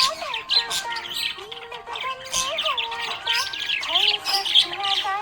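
Budgerigar chirping and warbling in a rapid, continuous chatter, with quick high chirps over lower gliding whistled notes.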